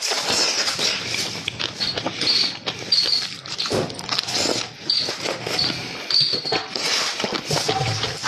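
Close-up eating sounds: wet chewing, lip smacking and slurping of food, with many quick irregular clicks and brief squeaky slurps.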